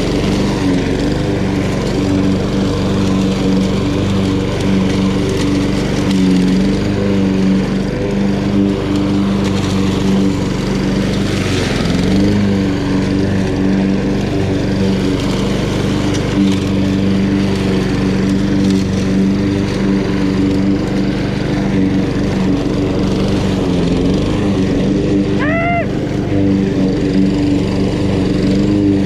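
Honda GCV170 single-cylinder four-stroke engine of a walk-behind lawn mower running steadily at cutting speed. Its pitch dips and recovers briefly twice under load. A brief high chirp comes near the end.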